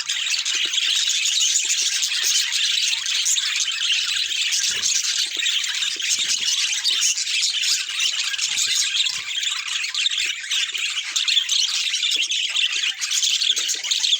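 Budgerigars chattering and warbling continuously in high, busy chirps, without a break.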